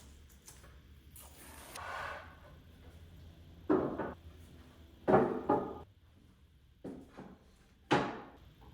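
Wooden parts being handled: a short scrape, then a handful of sharp wooden knocks and clunks, the loudest about five seconds in.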